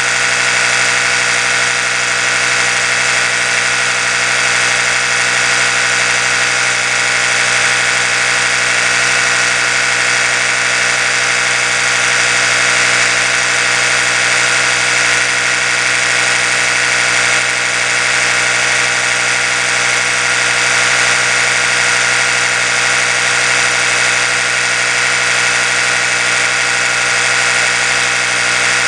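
Oral-B electric toothbrush running steadily: a continuous, unchanging motor hum with its spinning brush head.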